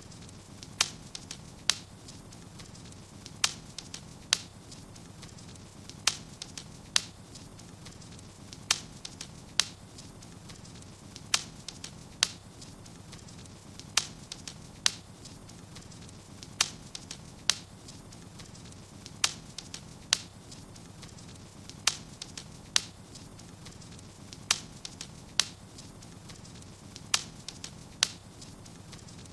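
Wood fire burning in a fireplace: sharp pops and cracks about once a second, often in pairs at a regular pace, over a faint steady low hiss.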